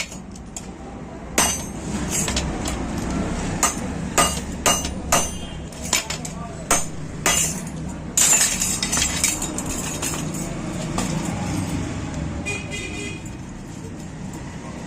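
Sharp metal clinks and knocks, about ten of them at uneven intervals, from hand tools working on a motorcycle wheel.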